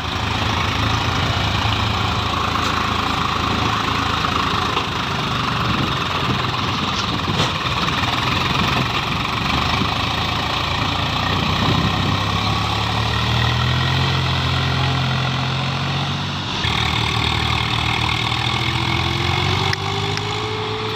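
Swaraj 735 FE tractor's diesel engine running steadily, with a slight change in its note about two thirds of the way through and a rising whine near the end.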